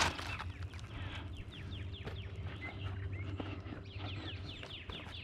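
Birds chirping in quick runs of short falling notes over a low steady hum.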